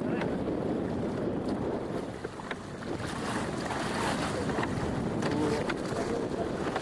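Wind buffeting the microphone over the steady wash of water along the hull of an open boat under way.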